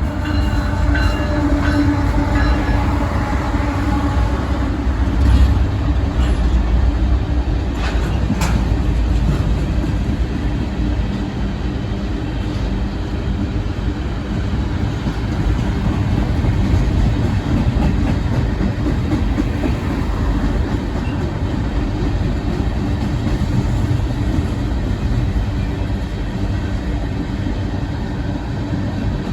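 Iowa Interstate Railroad freight train rolling past, a steady loud rumble of wheels on rail with a couple of sharp clicks partway through.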